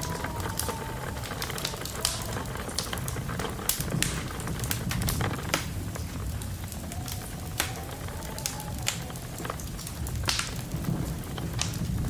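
Wood fire crackling, with frequent sharp pops and snaps over a steady low rumble. A faint wavering whistle of wind rises and falls at the start and again past the middle.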